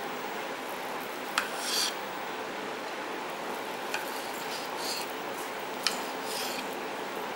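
Kitchen utensils being handled: three light clicks, each followed by a short scrape, over a steady background hiss.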